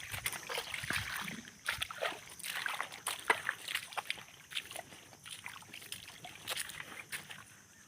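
Water splashing and sloshing in irregular short strokes, busiest in the first half, over a faint steady hiss.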